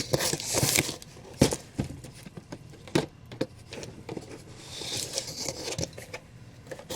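Boxed figures and packing material being handled and unpacked: crinkling and rustling with scattered light knocks and taps, and a longer rustle about five seconds in.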